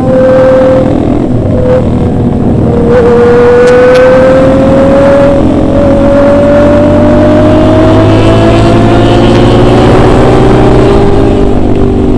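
Motorcycle engine running under way, heard from the rider's seat, its note climbing slowly as the bike gains speed, with a short break and drop in pitch about three seconds in. Steady wind rush underneath.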